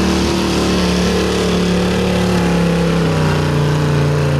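A 1978 Ford F-250 stock gas pulling truck's engine running loud at wide-open throttle under the heavy load of a truck pull, its pitch slowly sinking as the engine bogs down.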